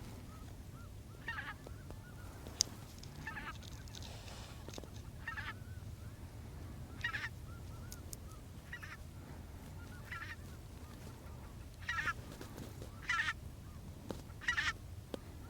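Snow geese calling: about ten short, high-pitched honks at uneven intervals, more of them near the end, over a steady low rumble.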